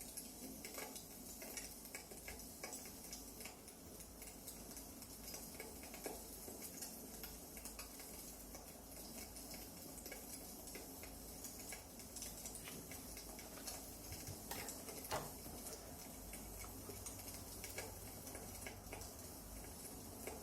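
Wood fire crackling in a fireplace: a soft steady hiss with irregular small pops and snaps, one sharper pop about three quarters of the way through.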